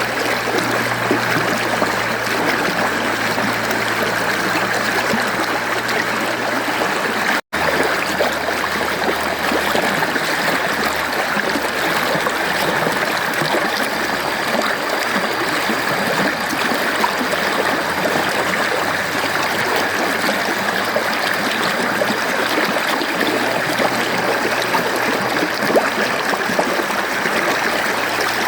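Mountain stream flowing steadily, a continuous rushing and trickling of water, with a split-second drop to silence about seven seconds in.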